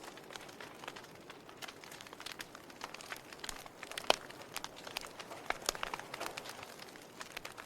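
Wood fire crackling: scattered sharp pops and snaps from burning logs over a faint hiss, with one louder pop about four seconds in.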